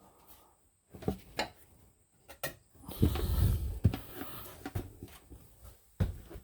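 Handling noise from setting a toilet: a few sharp clicks and knocks, then a low rubbing and shuffling from about three seconds in, with another knock near the end.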